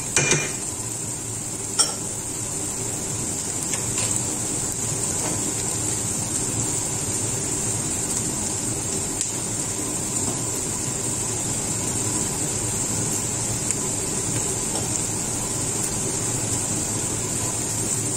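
Garlic and spice sofrito sizzling steadily in a pot, with a cooking spoon clicking and knocking against the pot a few times, sharpest about two seconds in.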